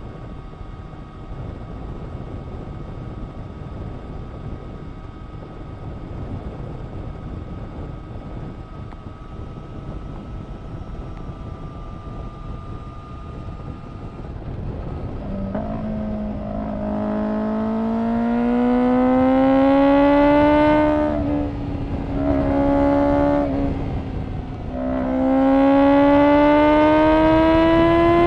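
Honda CBR1000RR-R SP Fireblade's inline-four engine through an Akrapovic exhaust, running steadily at first. About halfway through it accelerates hard, its pitch climbing. Near the end it drops briefly twice at gear changes, then climbs again.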